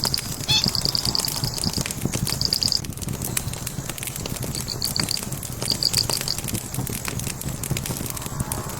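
Logs burning in a fireplace, crackling and popping over a low steady rumble. High chirping trills come in short runs during the first three seconds and again around five to six seconds in.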